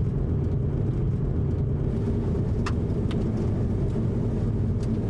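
Steady engine and road noise of a car driving, heard from inside the cabin, with a few light clicks.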